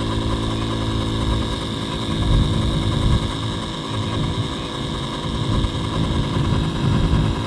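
Electric air pump running with a steady hum, inflating an inflatable boat.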